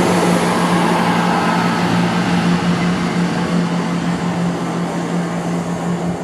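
A train running past at speed: a loud, steady rumble with a constant low hum, slowly easing off toward the end.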